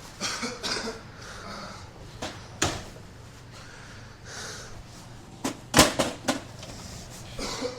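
Scattered sharp knocks and clicks of tools and parts being handled during engine removal, the loudest a cluster about six seconds in, over a steady low hum.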